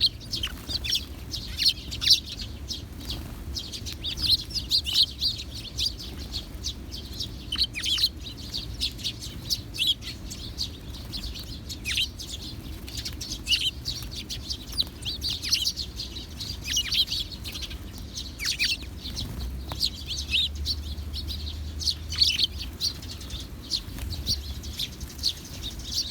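Sparrows chirping: a steady run of short, high chirps from several birds, often overlapping, over a low steady rumble.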